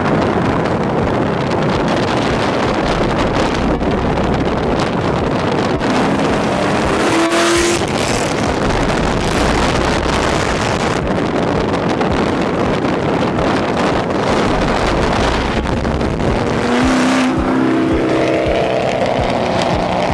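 2006 Ford Mustang GT's 4.6-litre V8 running loud through a muffler delete and off-road X-pipe. The engine note climbs twice, about a third of the way in and again near the end.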